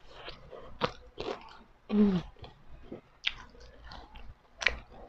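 Close-up eating sounds: biting and chewing fried dynamite chili, with scattered short crunches and wet mouth smacks. A brief hum falls in pitch about two seconds in.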